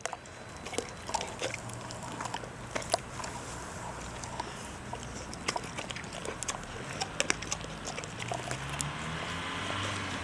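A bullmastiff chewing a whole raw chicken: irregular wet crunches and sharp cracks of bone. A low engine hum rises underneath from about seven seconds in.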